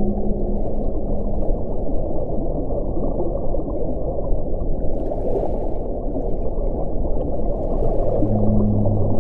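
Wind blowing in a steady, deep rush. A low, steady moaning tone is heard at the start, fades, and comes back deeper about eight seconds in.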